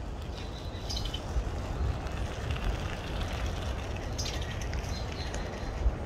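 Steady low rumble with short, high-pitched chirps from small birds, about a second in and again around four seconds in.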